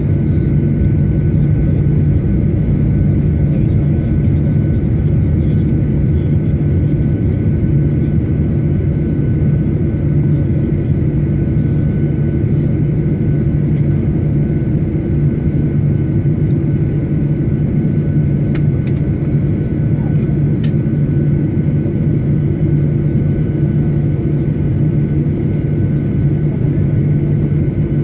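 Steady cabin noise inside a Boeing 737-900 taxiing after landing: a constant low rumble from its CFM56-7B engines running at low power, with two faint steady whines above it.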